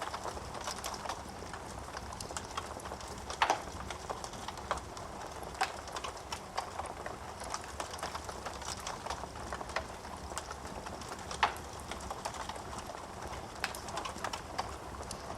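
Wood fire crackling in a fireplace: irregular sharp pops and snaps of burning wood over the low steady hiss of the flames, with two louder pops, about three and a half seconds in and near eleven and a half seconds.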